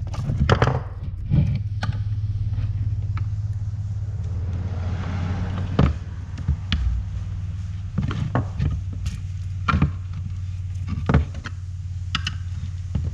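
Scattered clicks, taps and scrapes as a pickup's vent window glass is pried and worked loose from its metal frame, over a steady low hum.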